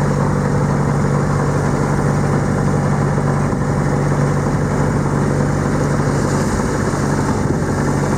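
Sailing yacht's inboard engine running steadily while the boat motors along: a constant low hum with an even hiss over it.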